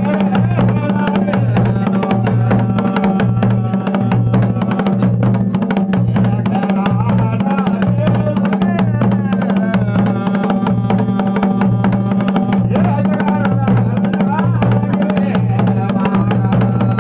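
Dhol and damau drums playing a Mandan rhythm, with dense strokes over a low pulse that repeats about once a second. A sustained melody runs above the drumming.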